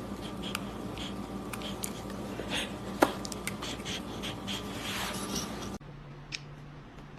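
Light scratching and scattered sharp clicks over a steady low hum. The background changes abruptly near the end.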